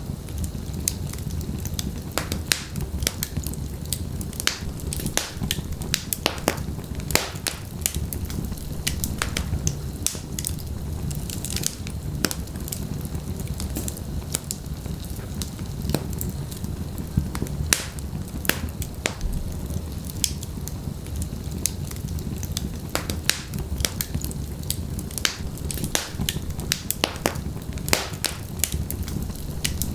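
Wood fire burning in a fireplace: logs crackling and popping in irregular sharp snaps over a steady low rumble of flames.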